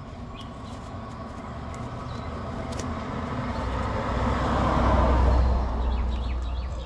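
A road vehicle driving past, its noise and deep rumble growing louder to a peak about five seconds in and then fading.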